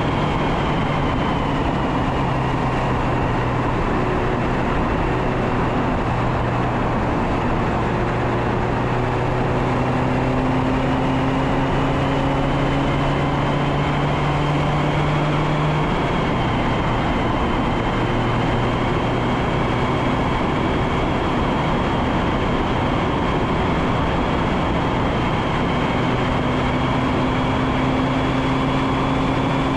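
Mazda MX-5 Miata ND2's 2.0-litre four-cylinder engine and exhaust pulling on the road, heard from a front bumper camera with heavy wind noise over the microphone. The engine note holds steady and drops abruptly in pitch about a second and a half in and again about halfway through.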